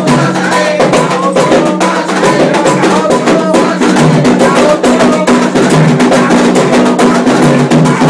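Candomblé ritual drumming: atabaque hand drums beating a dense, steady rhythm.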